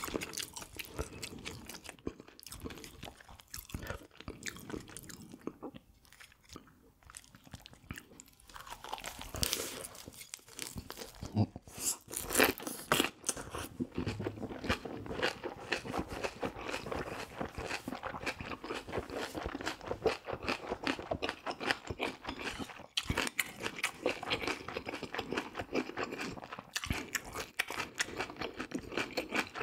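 A person chewing and crunching food close to the microphone: a dense run of wet chews and crisp crunches, quieter for a few seconds, then louder and busier from about a third of the way in, with a few sharp crunches near the middle.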